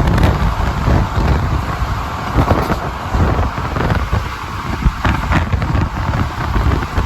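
Passenger train running: a loud, steady rumble of the coach and wheels on the track, with wind buffeting the microphone.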